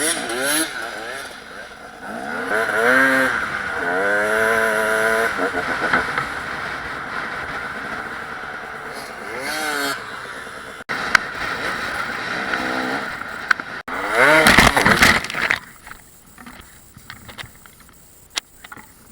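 Dirt bike engines revving up and down, mixed with voices. A loud burst comes about three-quarters of the way through, then it drops to a quieter stretch with scattered clicks.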